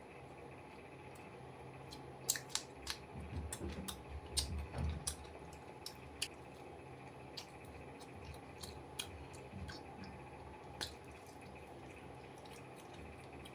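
Close-up eating sounds: scattered sharp, wet mouth clicks from chewing, with a cluster of low thumps between about two and five seconds in.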